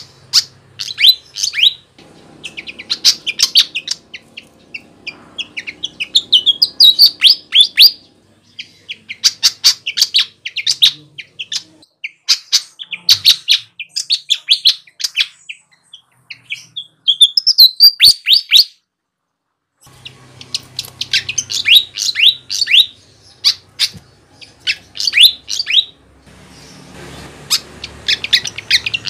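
Sikatan (flycatcher) song: rapid bursts of sharp, high chirps sweeping downward, with a brief silent break a little past the middle.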